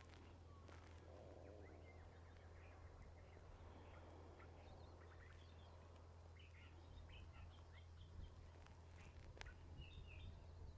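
Near silence: faint, scattered bird chirps over a steady low hum.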